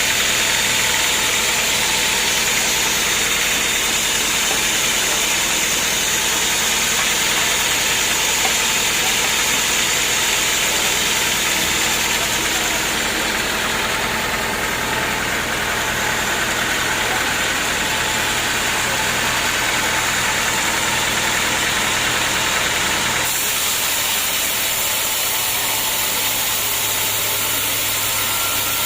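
Engine-driven homemade sawmill running steadily. The sound changes abruptly about four-fifths of the way in.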